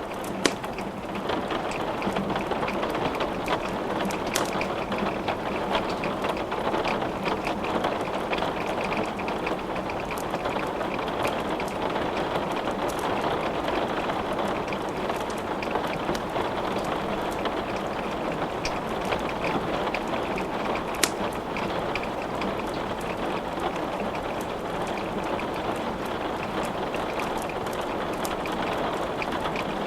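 Steady rain falling, mixed with a wood fire crackling in a fireplace: many small sharp pops over the steady hiss, with two louder snaps, one about half a second in and one about twenty seconds later.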